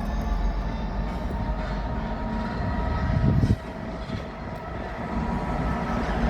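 A train running, a steady mechanical hum with several steady tones in it. There is a louder low rumble about three seconds in, and after it the sound drops somewhat quieter.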